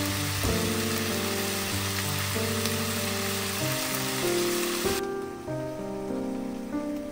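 Background music with a gentle melody, over a steady sizzling hiss of food frying in a pan that cuts off abruptly about five seconds in.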